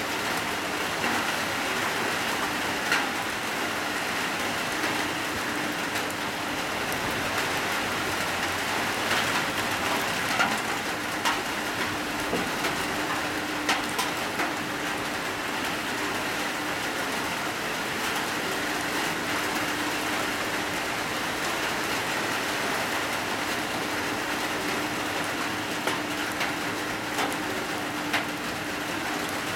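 Heavy rain falling steadily, a dense hiss with scattered sharper drop impacts. A faint low hum comes and goes underneath.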